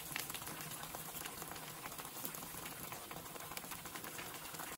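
Blended spice paste and chilli paste frying in oil in a wok, bubbling and sizzling with a steady fine crackle.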